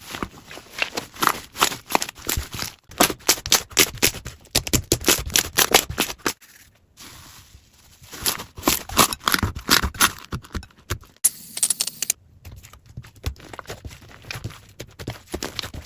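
Slime being squeezed and pressed by hand, making rapid runs of wet clicks and pops, with a short pause about halfway through and another near the end.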